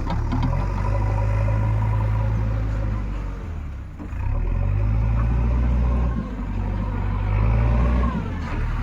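Heavy diesel engine running under working load, its note dropping and picking up again a few times as the revs change.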